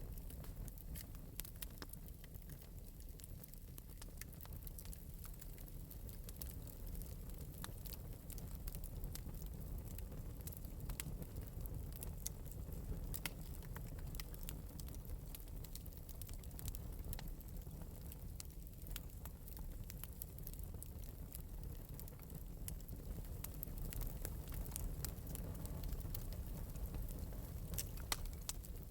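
Wood fire burning in an open metal fireplace with a steady low rumble and irregular light crackles and pops.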